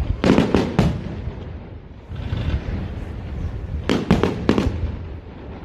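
Fireworks display: a quick volley of about four sharp bangs right at the start, then another volley of about four bangs about four seconds in.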